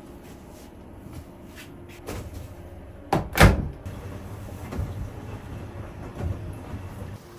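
Household handling sounds: a few light clicks, then a sharp double knock a little over three seconds in, like a door or cupboard being shut, followed by softer thuds.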